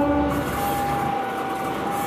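A locomotive horn blast cuts off about half a second in, followed by the steady noise of a train passing, with a thin high tone held through it.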